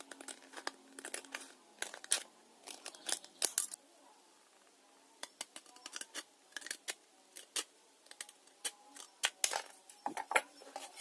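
Scissors or tin snips cutting the thin sheet metal of a cigarette tin: irregular sharp snips and clicks in two runs, with a pause of about a second and a half near the middle.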